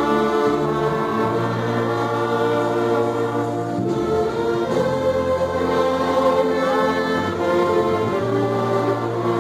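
Church orchestra playing a gospel hymn in slow, sustained chords that change about every four seconds.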